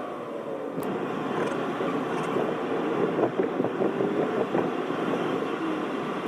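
A road vehicle running on the move: a steady rushing noise with an engine hum that drifts slightly in pitch.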